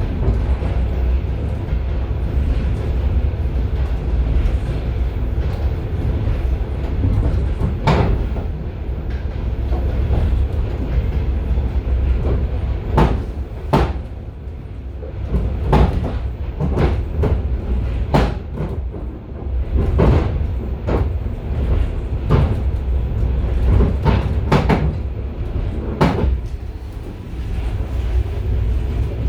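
Passenger railway carriage running, heard from inside its vestibule: a steady low rumble, with sharp, irregular knocks from the wheels on the track starting about eight seconds in.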